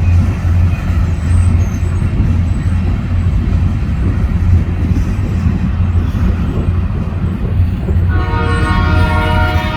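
EMD SD40-2 diesel-electric locomotives running with a steady low rumble, then the locomotive air horn starts blowing about eight seconds in, several notes sounding together.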